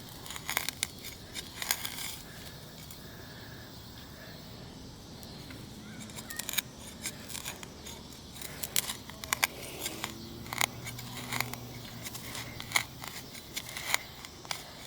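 Hand digging tool working in soil: irregular scrapes and sharp clicks as it cuts and strikes dirt and small stones.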